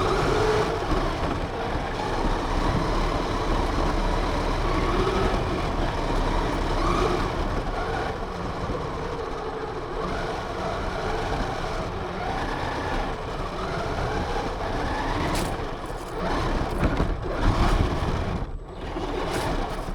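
RC car driving, heard from a camera mounted on the car: its motor and drivetrain whine rises and falls with the throttle over loud rumbling ground and tyre noise.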